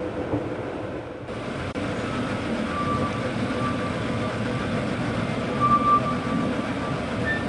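Narrow-gauge park railway train running along the track, a steady rumble of wheels and carriages, with brief high-pitched wheel squeals as it rounds a curve, about three seconds in and again near six seconds.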